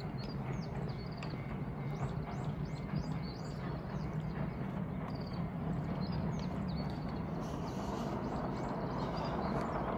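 Small birds chirping: many short, high calls that sweep downward, several in quick succession, over a steady low background hum that grows a little louder near the end.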